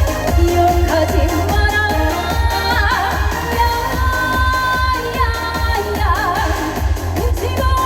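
A female trot singer sings live over an amplified backing track with a steady, heavy bass beat, holding long notes with vibrato.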